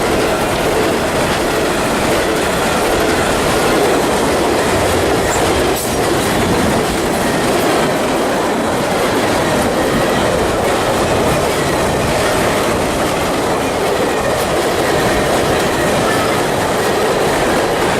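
CSX freight train rolling past at track side, a loud, steady noise of steel wheels running on the rails.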